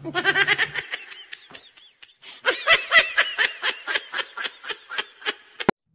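A person laughing in quick, rhythmic bursts of about five a second. There is a short run, a brief pause, then a longer run that fades away.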